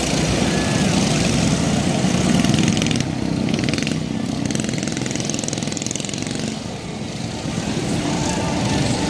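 Mini bike engines running in a race, a steady buzz that is loudest a couple of seconds in, dips a little past the middle, and swells again near the end.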